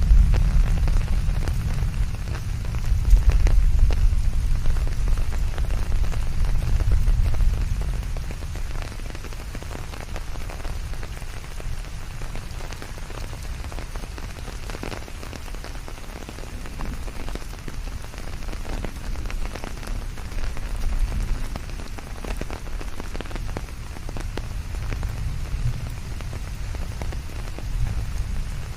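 Steady rain falling, with many separate drop hits standing out of the hiss. A deep low rumble underlies the first eight seconds, when it is loudest, fades, then swells again near the end.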